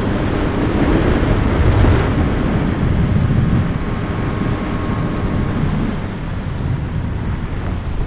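Yamaha MT-09's three-cylinder engine running through an Akrapovic full exhaust while riding, mixed with heavy wind noise on the helmet-mounted microphone. It is loudest for the first few seconds, then eases off as the bike slows.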